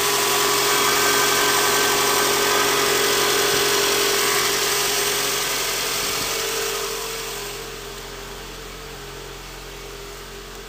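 2008 Scion's four-cylinder engine idling steadily after a cold start in freezing weather. It gets noticeably quieter about seven seconds in and keeps running.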